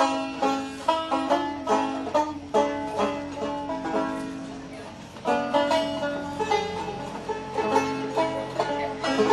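Bluegrass music without singing: a banjo picked in quick runs of plucked notes.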